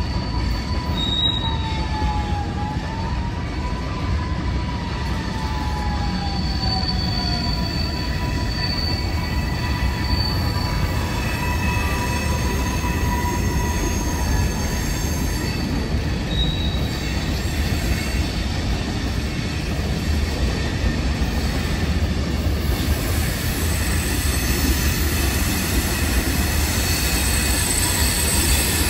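CSX freight train's tank and covered hopper cars rolling past on elevated track: a steady low rumble of wheels on rail. Thin wheel squeals come and go over it, one dipping and falling in pitch in the first several seconds and higher ones later.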